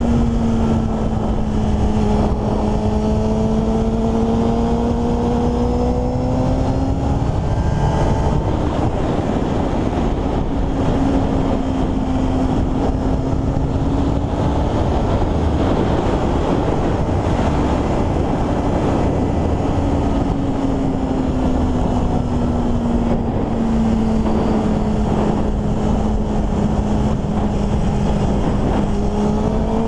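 Motorcycle engine running at a fairly steady speed, its pitch drifting slowly up and down, under a loud, continuous rushing noise.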